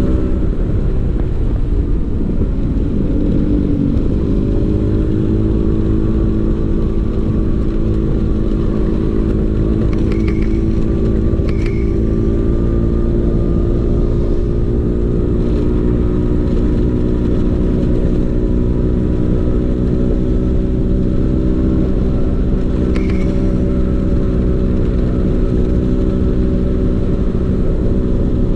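Vespa PX 150's single-cylinder two-stroke engine running through a DRC Victory racing exhaust, its note rising a little in the first few seconds and then holding steady.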